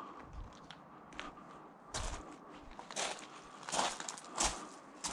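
Rustling and clattering of rubbish being rummaged through by hand, in four or five short, separate bursts.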